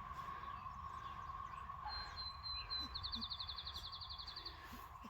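A small songbird sings a thin, high, steady note that breaks into a rapid, even trill about three seconds in, over the steady drone of a cicada chorus.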